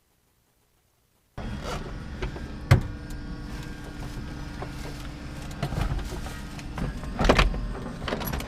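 Silence, then about a second and a half in, sound cuts in abruptly: a steady mechanical hum with a few sharp knocks and clatters, the loudest knock shortly after the start.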